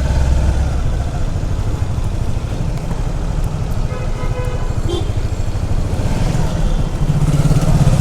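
Motorcycle engine running while riding, with road and wind noise; the engine gets louder near the end.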